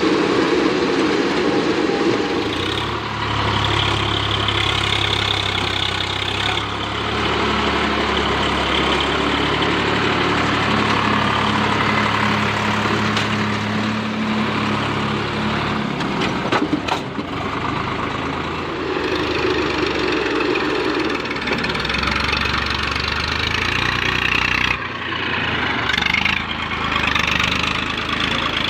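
Diesel tractor engine running steadily, its note shifting a few times, with a brief clatter of sharp knocks partway through.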